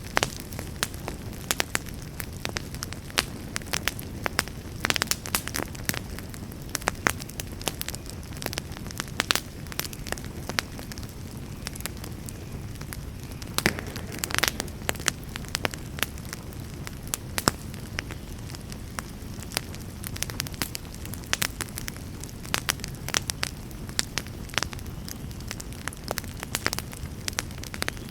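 Campfire crackling and popping: frequent irregular sharp pops, some louder than others, over a steady low rumble of burning.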